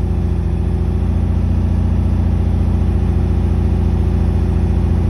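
Porsche 914's air-cooled boxer engine idling steadily, still warming up shortly after a cold start.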